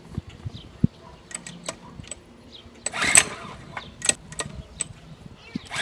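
Pull-start attempts on a mini bike's small engine that has sat for years: the recoil starter is yanked about three seconds in and again near the end, each a short rushing whir, and the engine doesn't catch. Light clicks and knocks from handling the bike come in between.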